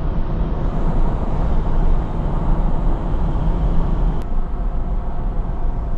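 Ford F-250 pickup driving, a steady low road and engine rumble, with one sharp click about four seconds in.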